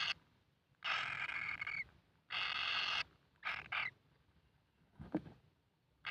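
Kingfisher chick giving harsh, raspy calls about a second long, three in a row followed by a short double call. A soft knock comes near the end.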